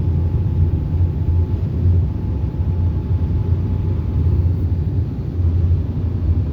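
Ryko Voyager in-bay automatic car wash running, a steady low rumble with a faint, even whine, heard from inside the car's cabin.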